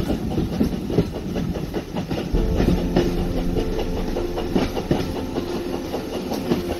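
Steam-hauled passenger train running on the line, its carriage wheels clattering over the rails, heard from an open coach window. Music comes in under it about a third of the way in.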